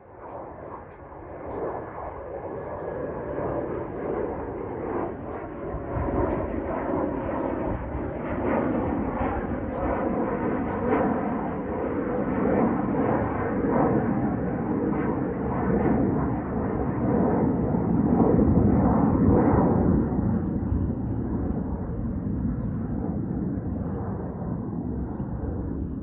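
Embraer Phenom 300 business jet's twin Pratt & Whitney Canada PW535E turbofans at takeoff thrust: a jet rush that swells within the first two seconds and stays loud, loudest about three quarters of the way through, with a thin whine above the rush in the first half.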